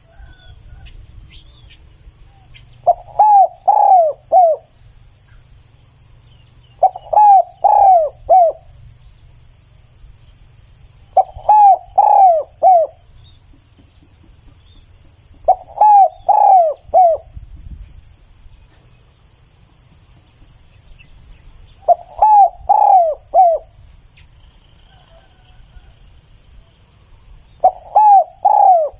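Spotted dove cooing in repeated phrases of three to four notes, six phrases in all, every four to six seconds. Insects chirr steadily and high in the background.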